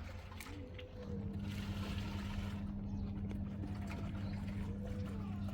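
A steady low motor hum over a low rumble, starting about a second in and holding at one pitch.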